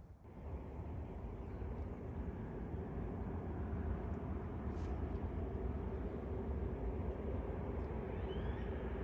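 Jet airliner engines running: a steady, deep rumble with a faint steady whine, building over the first second or two.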